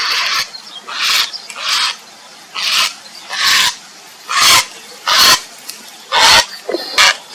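Grey heron giving a string of short, harsh, rasping calls, about one every three-quarters of a second.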